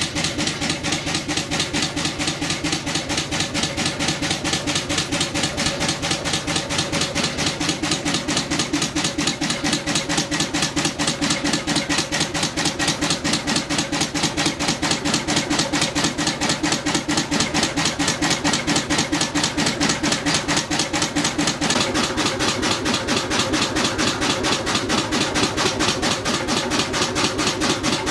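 Old marine engine running, each firing stroke a distinct knock in an even, fast rhythm. About three quarters of the way through, its tone changes and the deep part of the sound drops away.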